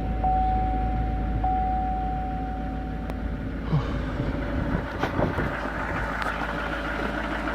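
A 2016 GMC's 6.6-litre Duramax V8 turbo-diesel idling steadily just after a cold start at about −10 °F. A thin steady high tone sits over the idle and stops about halfway through. A few sharp clicks follow.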